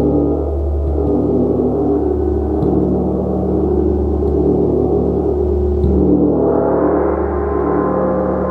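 Gong being played in a continuous, dense ringing wash of many overlapping tones with no distinct strikes. About six seconds in, the sound swells and grows brighter.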